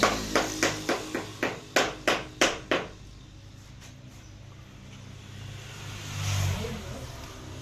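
A quick series of about ten sharp knocks, roughly three a second, then a low steady hum that swells briefly near the end.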